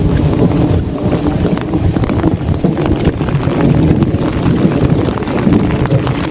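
Heavy rain falling on an umbrella, with many close, sharp drop hits, and wind buffeting the phone's microphone.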